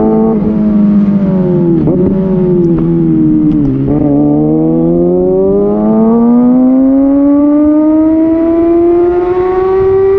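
Kawasaki Ninja ZX6R inline-four through an Austin Racing slip-on exhaust. The revs fall for about four seconds, with two short rev spikes on the way down, typical of blipped downshifts. Then the revs climb steadily for about six seconds in one long pull.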